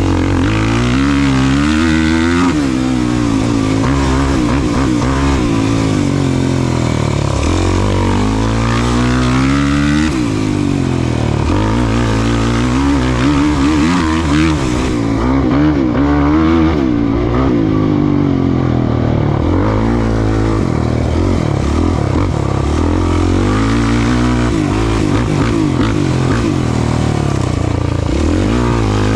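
Off-road race vehicle's engine run hard, its pitch rising and falling over and over with throttle and gear changes, with several long climbs in revs.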